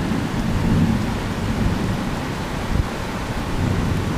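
Heavy thunderstorm rain pouring steadily outside an open window, with thunder rumbling low underneath.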